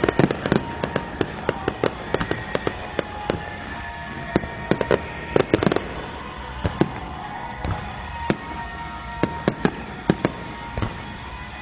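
Fireworks bursting in a rapid, irregular run of bangs and crackling pops over show music with long held notes.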